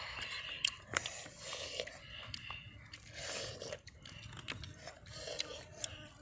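A boy chewing and biting pieces of fried pork, with sharp clicks scattered through the chewing.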